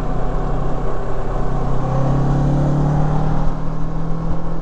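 Kawasaki Versys 650's parallel-twin engine running under way on the road, its note rising a little about two seconds in as the rider picks up speed, then settling back about a second and a half later.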